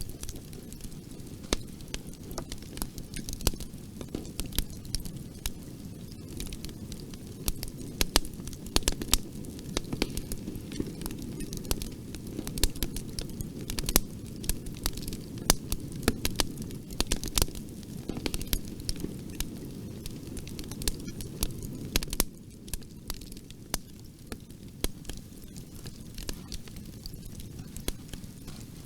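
Bonfire burning: a steady low rush of flames with frequent sharp crackles and pops, the low rush easing a little about two-thirds of the way through.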